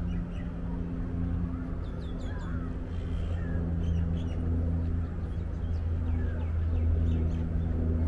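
Birds chirping and calling, short high chirps and a few sliding calls repeating throughout, over a steady low hum.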